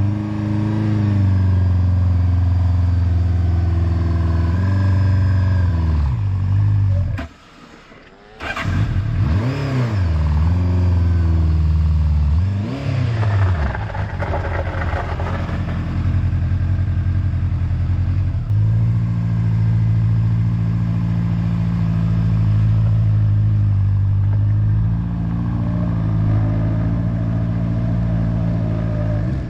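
Honda motorcycle engine running on the road, mostly at a steady pitch. The sound drops away sharply for about a second some seven seconds in, then the engine revs rise and fall several times before it settles back to a steady pitch.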